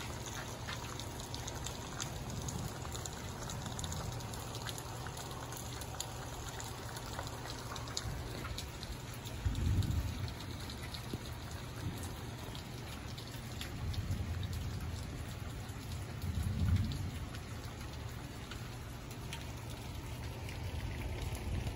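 Rain falling steadily, a constant hiss with faint scattered drop taps. Low rumbles swell up twice, near the middle and again about seven seconds later.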